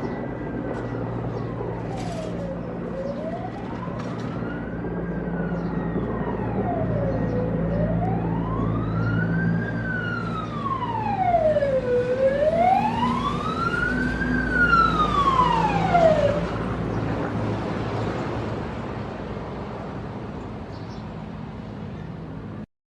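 Emergency vehicle siren in a slow wail, rising and falling about every four and a half seconds over a low engine rumble. It grows louder, then stops about two-thirds of the way through while the engine noise fades away.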